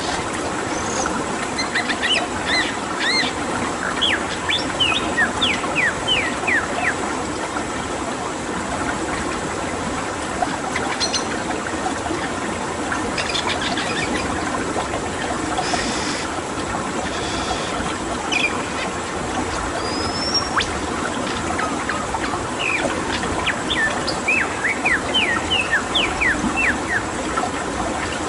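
Birds calling over the steady rush of running water: two runs of quick, falling whistled notes, one near the start and one near the end, with scattered single calls between.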